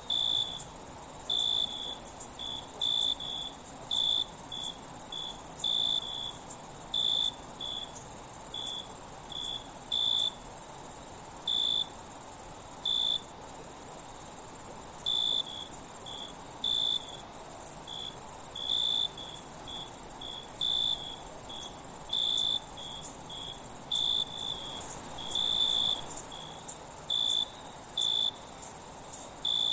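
Night insect chorus: crickets trilling steadily on a high pitch, with a lower chirping call repeating irregularly about once or twice a second over it.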